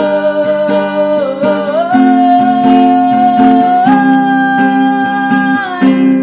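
A female singer holding long notes and sliding between them, over strummed acoustic guitar and sustained chords; the voice stops near the end while the chord rings on.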